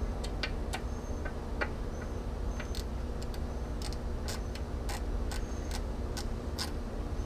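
Ratchet wrench clicking in short, irregular runs of sharp ticks while loosening a bolt.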